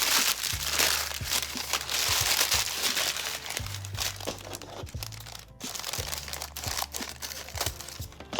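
Paper being squashed and crumpled by hand, a continuous crackling crinkle that is strongest in the first few seconds and thins out later, over background music.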